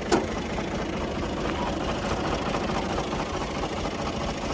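Clayson 8080 combine harvester's engine running steadily with a dense mechanical rumble, and one sharp knock just after the start.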